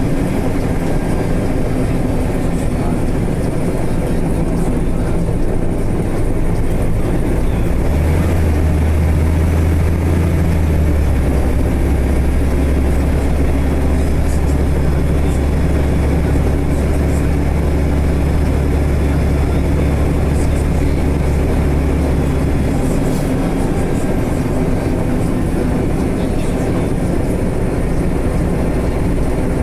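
Steady vehicle noise, with a deep drone that starts about eight seconds in and stops about fifteen seconds later.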